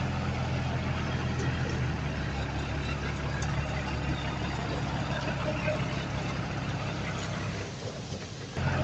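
Heavy diesel engine of earthmoving machinery running steadily with a deep, even drone. The sound drops away briefly near the end and comes back abruptly.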